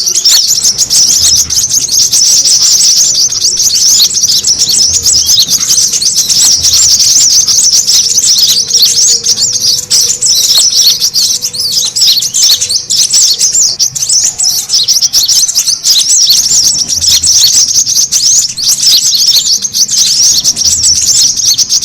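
Brown-throated sunbirds (kolibri kelapa) in noisy, agitated chatter: a dense, unbroken stream of rapid high-pitched chirps and twitters.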